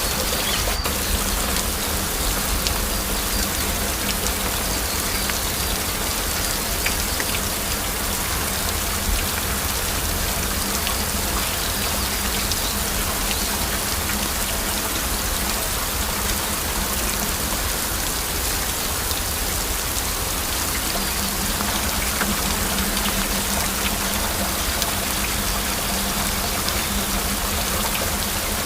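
Heavy rain falling steadily, a dense even hiss with scattered sharper drop hits, one of them a little louder about a second in.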